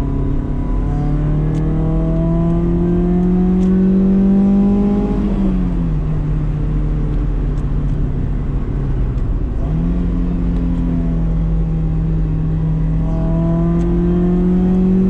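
BMW E30 318is's 1.8-litre four-cylinder engine pulling through the gears in light acceleration. The pitch climbs steadily, falls at an upshift about five seconds in, then jumps back up near ten seconds and climbs again.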